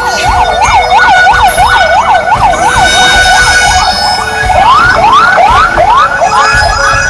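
Electronic emergency siren, most likely a fire truck's, sounding loudly in a fast up-and-down yelp that changes about four and a half seconds in to a pattern of quick rising sweeps.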